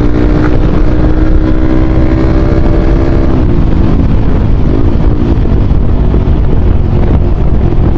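Motorcycle with an aftermarket exhaust running while being ridden, with a deep bass exhaust note. The note holds steady, then falls about three seconds in and goes rougher as the throttle eases, with some wind on the microphone.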